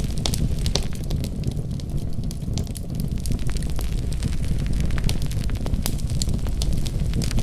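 Wood fire burning in a fireplace: a steady low rumble of flame with frequent sharp crackles and pops scattered throughout.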